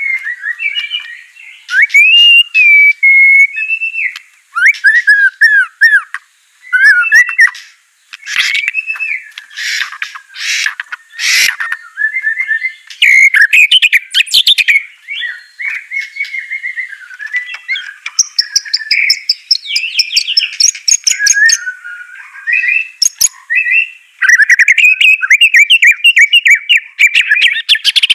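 White-rumped shama singing: a long, varied song of clear whistled phrases and pitch glides, broken by fast rattling, chattering runs and short pauses.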